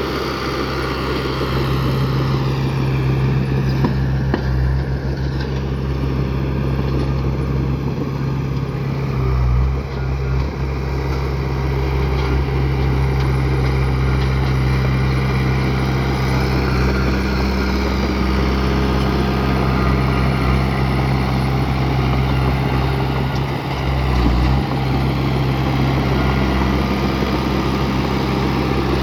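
Bulldozer's diesel engine running, a steady low drone that dips briefly twice, about ten seconds in and again later.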